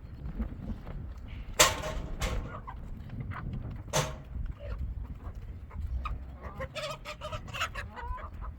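Chickens clucking: a few sharp calls in the first half, then a run of short clucks near the end, over a low background rumble.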